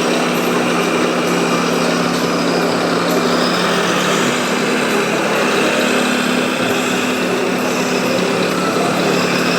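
Scale radio-controlled construction machines running, a steady mechanical drone with a couple of held low hums.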